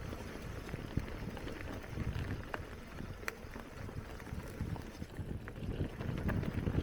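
Bicycle rolling along a forest dirt trail: a steady low rumble of tyres on the ground and wind on the microphone, with scattered sharp clicks and rattles.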